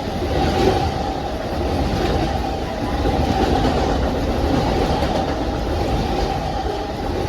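Amtrak Auto Train cars rolling past fast: a steady, loud rumble and rattle of wheels on rail, with a steady high tone held over it throughout.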